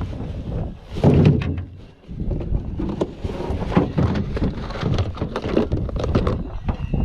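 Irregular knocks, clicks and clatter of gear and boxes being rummaged through in a boat, with a heavy thud about a second in.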